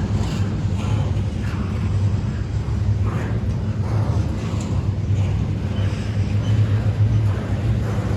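Norfolk Southern intermodal freight train rolling past: a steady low rumble, with faint clacks repeating through it.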